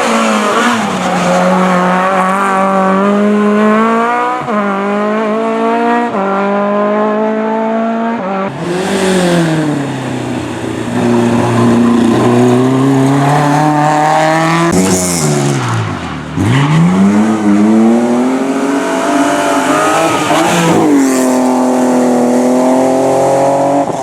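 Hillclimb race car engine revving hard up through the gears, its pitch climbing and dropping back at each quick upshift. Twice the revs fall away deeply, as on braking and downshifting for a bend, then climb again under acceleration.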